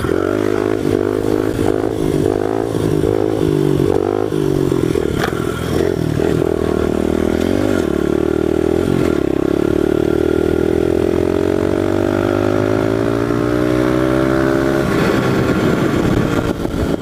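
1998 Honda XR100 pit bike's small single-cylinder four-stroke engine revving up and down through several gear changes, then pulling in one long, slow rise in pitch under hard throttle, which drops sharply as the throttle closes near the end. This is a full-throttle run through the gears for a high-gear wheelie.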